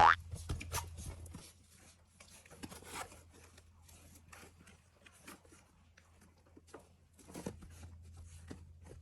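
Scattered scratching, rustling and small clicks of a toy poodle puppy playing, with paws and claws on the toy and floor. It opens with a brief loud sweeping tone.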